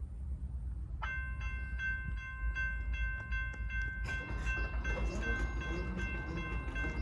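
Railroad crossing warning bell starts ringing about a second in, a rapid, steady ding about three times a second. From about four seconds in, the clattering rumble of the approaching train joins it.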